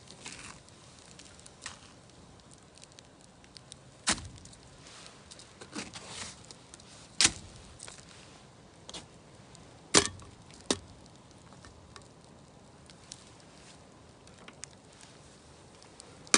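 Scattered sharp clicks and knocks over a quiet background, the three loudest about four, seven and ten seconds in, with fainter ticks between.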